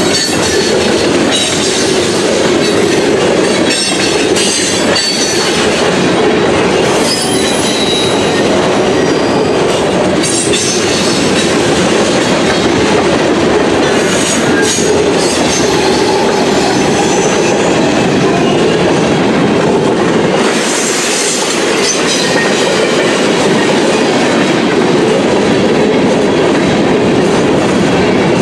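A Norfolk Southern freight train's cars rolling past at close range: a steady rumble of steel wheels on rail, with occasional clicks over the rail joints and faint high wheel squeals.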